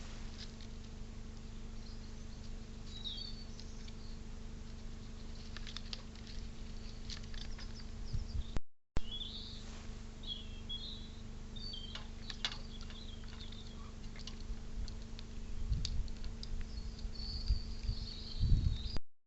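Birds chirping faintly with short high calls, among scattered small clicks and taps and a couple of low thumps near the end, over a steady low hum. The sound cuts out briefly about nine seconds in.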